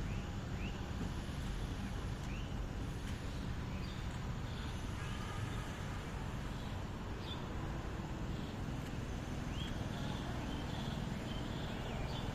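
Birds calling in short, rising chirps scattered throughout, over a steady low rumble of background noise.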